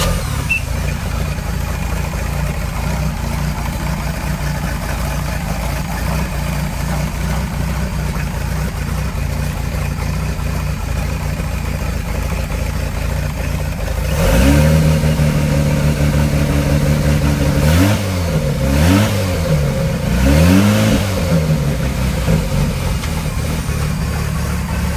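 Volvo Penta 4.3 GL carbureted V6 marine engine idling steadily just after a cold start, without ticking. About fourteen seconds in the revs rise and hold briefly, then it is revved up twice and settles back to a steady idle.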